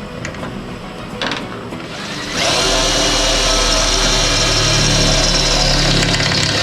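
An electric power tool motor spins up about two seconds in, runs at a steady high whine for about four seconds, and stops near the end.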